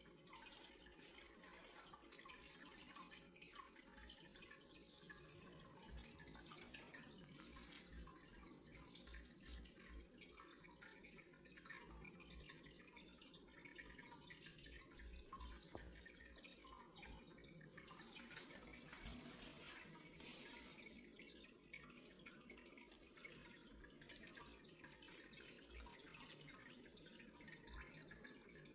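Faint, steady trickle of water with small drips.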